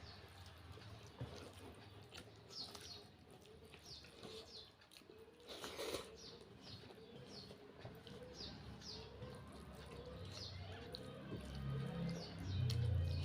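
Birds chirping repeatedly in short, high, falling notes, often in pairs, with a faster row of lower repeated calls beneath. There is a single click about halfway, and a low rumble near the end.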